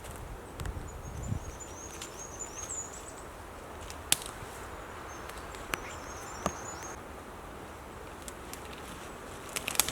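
Woodland ambience with a small bird singing two runs of high twittering chirps, and a few sharp knocks and clicks, the loudest near the end.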